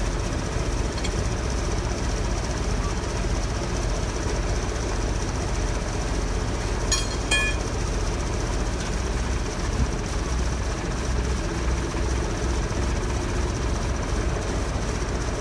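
An engine running steadily with a low rumble and a constant high whine, with a few sharp metallic clinks about seven seconds in.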